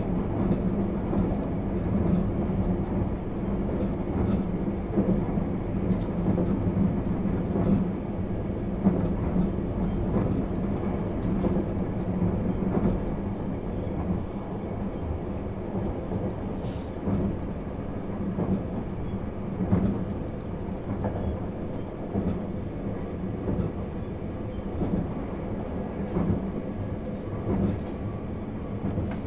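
JR East 651 series electric train running along the line, heard inside the passenger car: a steady low rumble and hum of the motors and wheels on the rails, with scattered light clicks.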